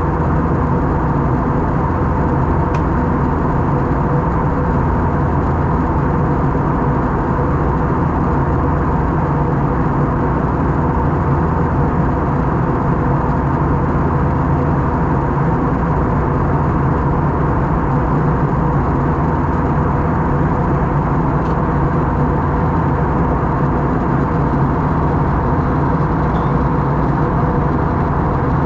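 Steady cabin noise of an Airbus A321-231 in flight: airflow and its IAE V2500 turbofan engines, with several steady hum tones under an even rush.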